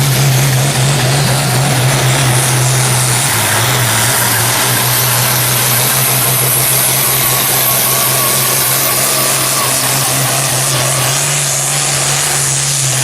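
Antique farm tractor engine running hard under load as it pulls the weight sled in a tractor pull, a steady low engine note that sags slightly a few seconds in and then holds.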